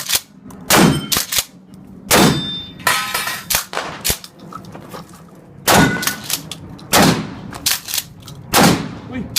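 A series of sharp bangs, roughly one every second or second and a half, each followed by a ringing tail that falls in pitch, with smaller metallic clicks and clangs between them.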